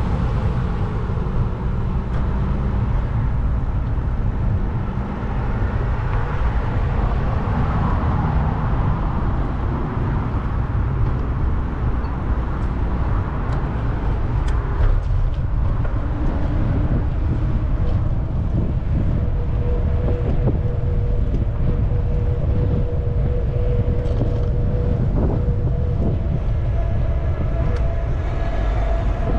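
Wind rumbling on the microphone of a moving bicycle, over city traffic noise. A steady tone comes in for several seconds past the middle.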